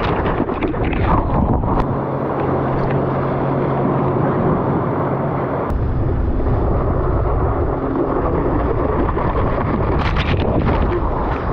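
Heavy wind buffeting on the microphone and rushing water, with the steady drone of a jet ski engine towing a skimboard rider.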